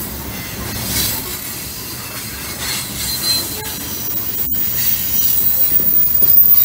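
Covered hopper cars of a freight train rolling past close by, a steady noise of steel wheels on rail that grows louder toward the end, with a brief dropout just past halfway.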